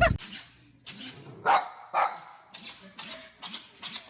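A dog sneezing twice in quick succession, about half a second apart, followed by several fainter short snuffles.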